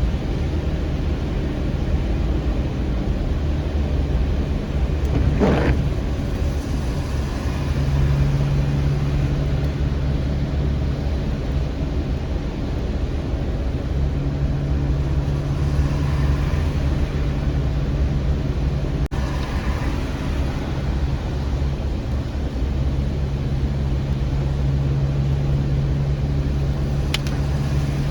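Car driving on the road: a steady low rumble of engine and tyre noise, with a brief rising squeal about five seconds in.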